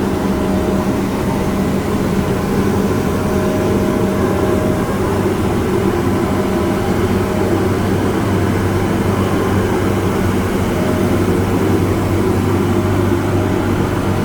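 Street-sweeping machine running with a very loud, steady engine drone.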